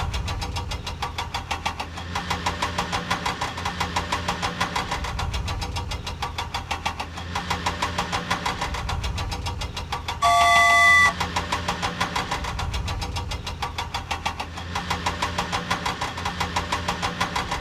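Cartoon vehicle engine sound effect running with a rapid, even chugging over a low hum. A short steady honk sounds about ten seconds in.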